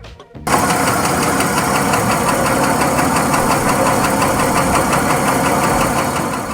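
A Porsche engine running steadily with a fast, even beat over its running, starting about half a second in. It is presented as a Porsche trouble sound, a sign of a fault.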